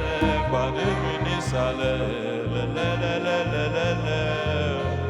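Live band music, instrumental: a pulsing bass line under sustained melodic tones.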